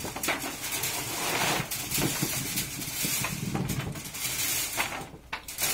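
Potato sizing machine running, potatoes rattling and clattering as they tumble over its shaking screens in a dense, continuous racket. The noise dips briefly near the end.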